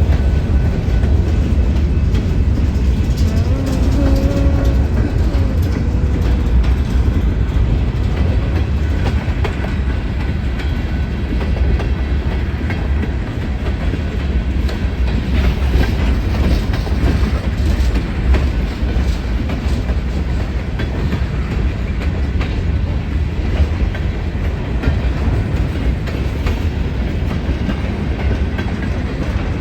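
A train rolling past close by: a steady, loud rumble of wheels on rail for the whole stretch, with the clickety-clack of wheels over rail joints.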